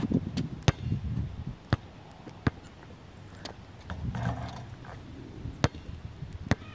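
Basketball bouncing on an outdoor court: a handful of separate sharp bounces about a second apart, then two more near the end, over a low rumbling noise that comes and goes.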